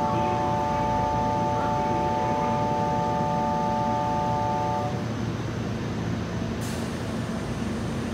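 Nankai electric train standing at a station platform, its low hum steady under a chord of several steady electronic tones that cuts off about five seconds in. A short hiss sounds near the end.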